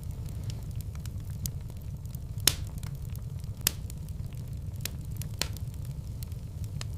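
Wood fire in a fireplace, crackling steadily over a low rumble of flames, with two louder pops about two and a half and three and a half seconds in.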